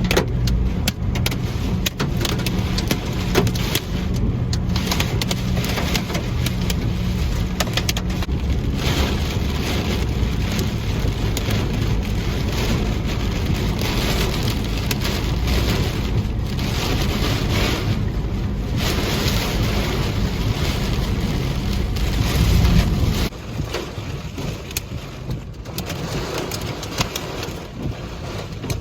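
Heavy thunderstorm rain beating on a moving vehicle, with steady road and engine rumble underneath. About 23 seconds in the low rumble drops away, leaving mostly the rain.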